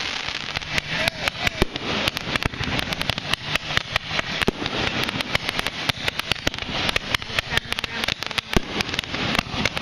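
Fireworks going off in quick succession: a dense, irregular run of sharp bangs and pops, several a second.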